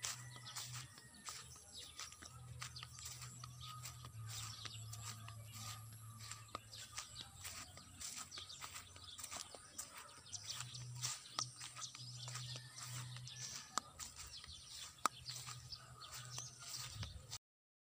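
Faint bird chirps and calls scattered over a low rumble that comes and goes, cutting off suddenly near the end.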